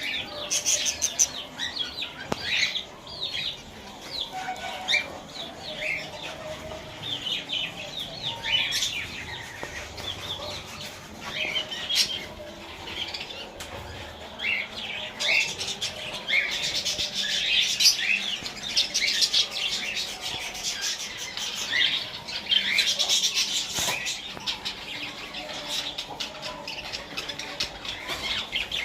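Many small farm-kept birds chirping continuously in a dense, overlapping chatter, with wings fluttering among the calls.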